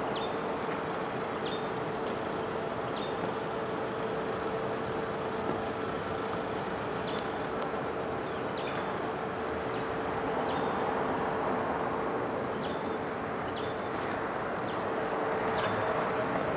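Microwave oven running on max with a steady hum and fan noise, with faint high ticks about once a second.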